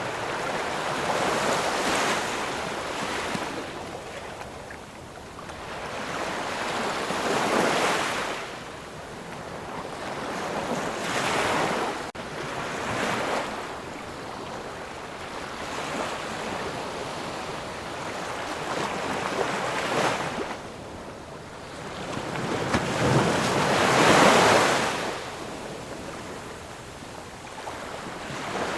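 Ocean surf: waves breaking and washing in one after another, each swelling up and falling away over a few seconds, the biggest near the end.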